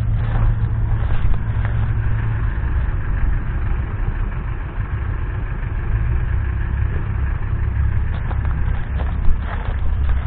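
Scania R520's 16.4-litre V8 diesel engine idling steadily, with one short sharp sound near the end.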